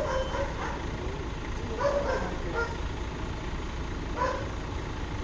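A heavy vehicle's engine running with a steady low rumble, with short calls rising over it three times.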